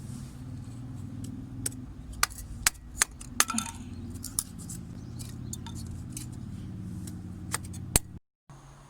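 Hard objects clicking and clinking: a run of sharp clicks over the first few seconds and two more near the end, over a steady low rumble. The sound cuts off abruptly near the end.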